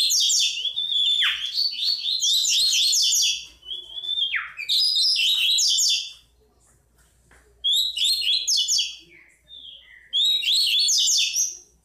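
Bico-de-pimenta (black-throated grosbeak) singing its 'tui tui' song: four loud phrases of rapid, high chirping notes with a few quick downward slurs, separated by pauses of about a second.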